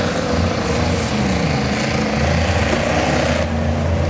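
Racing pickup trucks' engines running hard around a dirt track, their pitch rising and falling as they rev through the turns.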